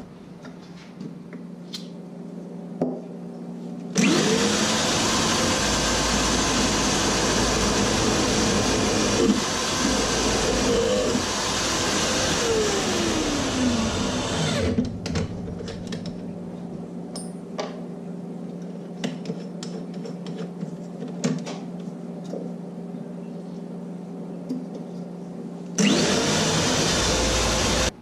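A loud high-speed electric motor runs for about eleven seconds, its pitch wavering as it loads and unloads, stops, and runs again briefly near the end. Underneath is the steady hum of shop machinery, with light clicks and taps between the runs.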